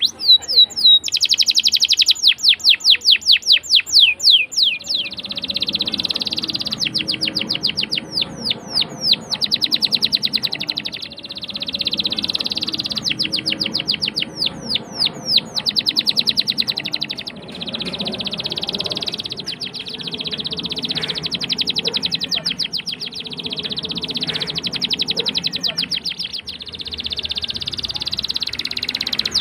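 Domestic canary singing continuously. Fast trills of rapidly repeated down-sweeping notes alternate with long, sustained rolling trills.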